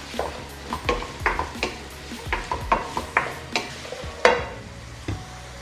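Spatula stirring and scraping sliced onions frying in hot oil in a pan, several irregular strokes a second over a sizzle, the loudest stroke about four seconds in; the stirring eases off near the end.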